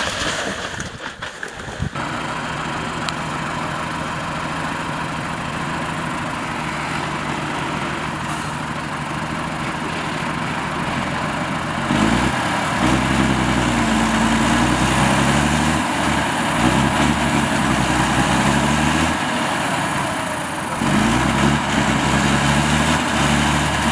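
A motor vehicle engine running, louder from about halfway, with its pitch rising and falling as it is revved. It eases off briefly a few seconds before the end, then picks up again.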